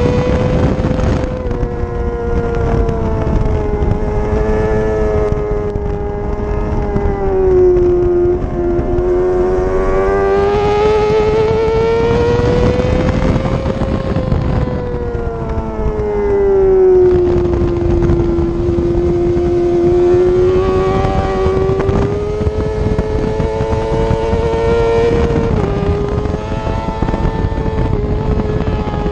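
Yamaha R6's 600 cc inline-four engine running at high revs on track, its pitch rising and falling slowly as the throttle is worked through the corners, over wind rush on the microphone.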